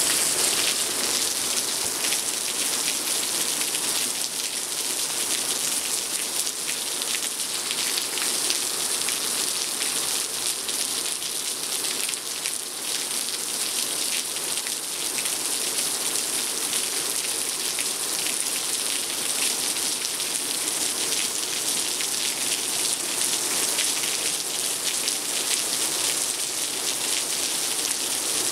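Steady rain falling on trees, lawn and a wooden deck: an even hiss dotted with many small ticks of drops landing close by.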